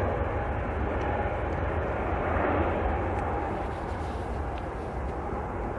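Turboprop airliner engines running, a steady rumble with a faint whine, slowly fading.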